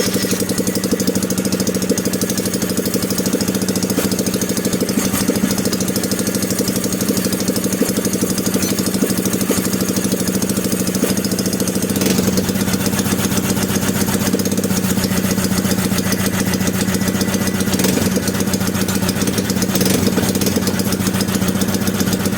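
Freshly rebuilt Honda GX200-clone single-cylinder four-stroke engine running steadily on its first start after the rebuild.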